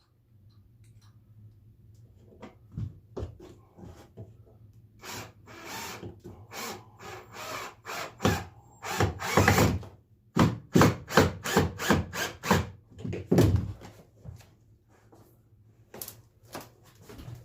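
Drill driving screws into a wooden boat rib, in several short runs with knocks of wood being handled, the longest run around the middle and a quick string of short bursts after it.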